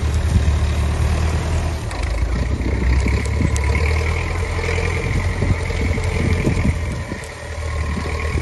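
Heavy truck's diesel engine running with a loud, steady low drone; a thin high whine joins about two seconds in.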